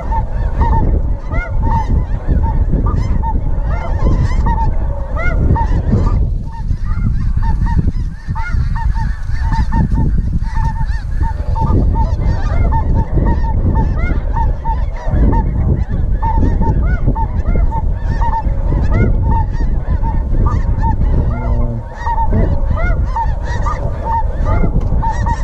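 Large flock of snow geese calling, a dense chorus of many short, high, overlapping honks, with wind buffeting the microphone underneath.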